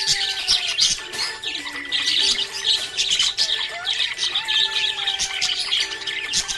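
Budgerigars chirping and chattering nonstop, a dense run of quick, high chirps and squawks.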